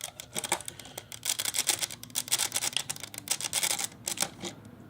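Rapid plastic clicking and clatter of Lego bricks being handled as the cab of a brick-built truck is pulled off the model.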